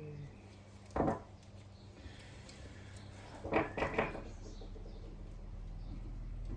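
Short clicks and knocks of tools and small pedal parts being handled during reassembly of a clipless bicycle pedal: one about a second in, then three close together around three and a half to four seconds.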